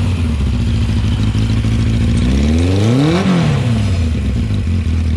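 Yamaha XJ650's air-cooled inline-four engine idling through an aftermarket M4 exhaust, blipped once a little past halfway: the revs climb sharply and drop straight back to idle.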